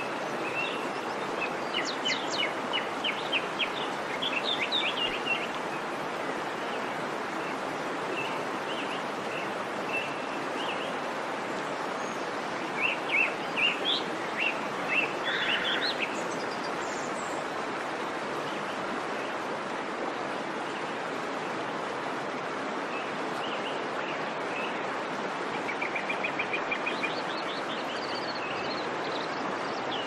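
Birds chirping in short runs of quick high notes, a second or so in, again around the middle and near the end, over a steady rushing hiss.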